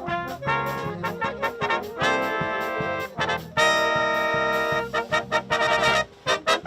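Brass band playing a dance tune, with trumpets and trombones over a steady beat. Two long held chords come in the middle among shorter notes.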